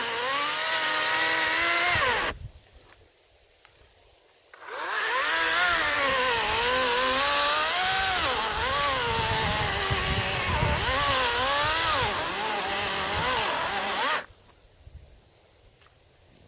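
Greenworks 40-volt battery chainsaw cutting pine logs, its electric motor and chain whine dipping and recovering in pitch as the chain loads up in the wood. It runs for about two seconds, stops for about two seconds, then cuts again for about ten seconds and stops.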